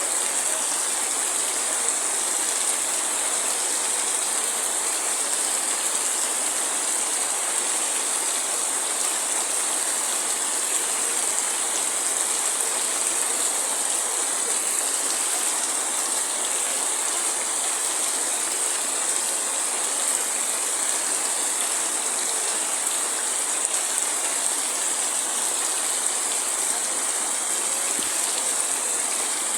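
Heavy rain falling steadily, an even, unbroken hiss strongest in the high range, with no thunder.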